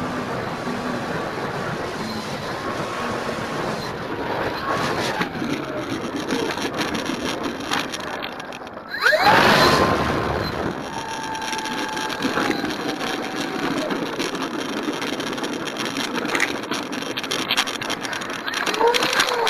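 Electric motor and propeller of an RC model Cessna 182 heard from an onboard keychain camera, its whine gliding up and down with throttle over heavy wind rush on the microphone. About nine seconds in, a louder rush lasting a second or two, with the whine climbing sharply.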